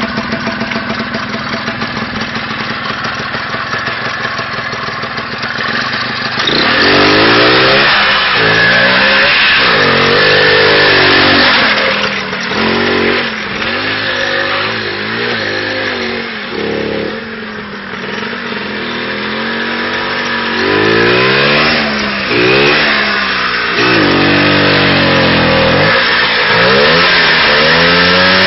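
IZh Planeta 5 trike's single-cylinder two-stroke engine idling, then, about six seconds in, growing much louder, its pitch climbing and dropping again and again as it is revved and run under throttle.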